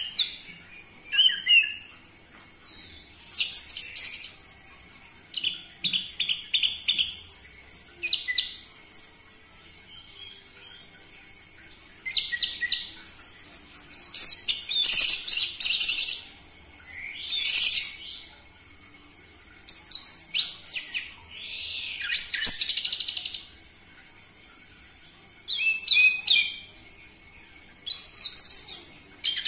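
Orange-headed thrush singing: loud, varied phrases of whistles and rapid trills, each lasting about a second or two, separated by short pauses.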